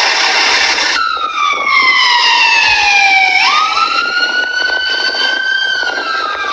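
Emergency vehicle siren wailing in slow rising and falling sweeps, its pitch jumping back up about halfway through. A loud rushing noise comes before it in the first second.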